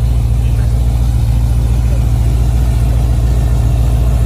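Cadillac CTS-V's supercharged V8 idling steadily, its sound mostly low-pitched with an even pulse.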